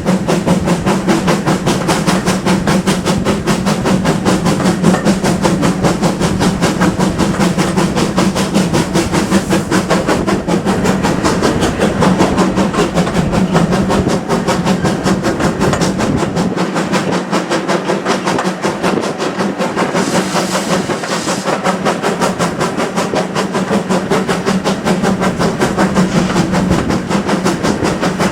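Steam train running, the locomotive's exhaust beating in a fast, steady rhythm over the rumble of the moving train. A brief hiss about twenty seconds in.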